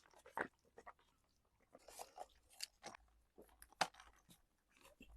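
Crunchy chewing of crispy garlic fried chicken: a scattered run of short crunches, the loudest about four seconds in.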